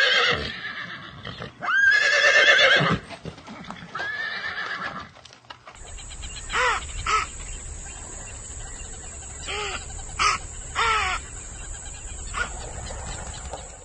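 Animal calls: two loud wavering calls in the first few seconds and a quieter one after them. Then, over a steady high whine and a low hum, a string of short calls that fall in pitch.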